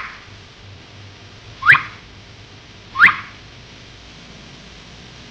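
Short, loud rising chirps like an electronic alarm whoop, repeated three times about a second and a half apart over a faint steady hum.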